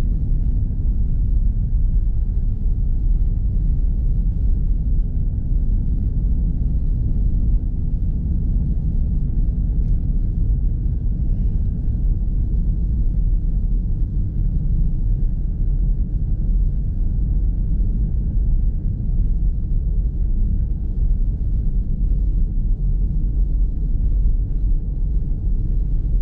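Steady low rumble of a car's engine and tyres heard from inside the cabin while driving on a snowy road, with a faint steady high tone above it.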